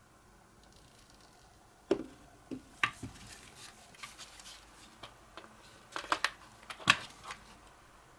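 Scattered clicks and knocks of a Makita cordless vacuum's parts being handled during disassembly: a sharp knock about two seconds in, a few lighter clicks after it, and a cluster of knocks near the end.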